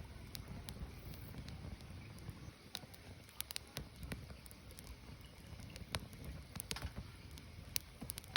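Firewood burning, crackling with irregular sharp pops over a low steady rumble; a few louder pops come near the end.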